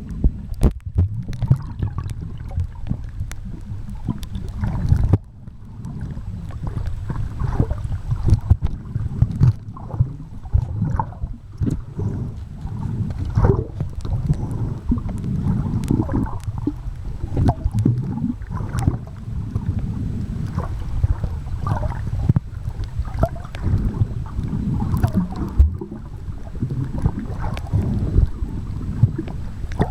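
Water sloshing and buffeting against the microphone: an uneven low rumble with frequent short knocks and splashes.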